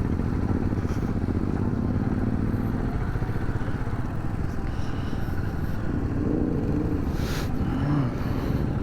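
Royal Enfield Himalayan motorcycle engine running steadily, with a brief hiss about seven seconds in.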